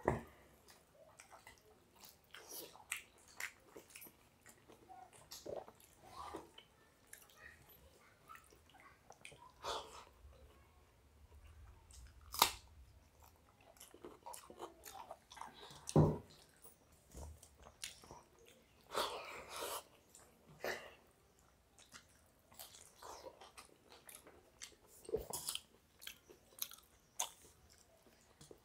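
Close-up mouth sounds of two people eating watery rice, raw onion and fried stuffed bitter gourd by hand: irregular chewing, bites and crunches with small wet clicks. Two sharper knocks come about halfway through.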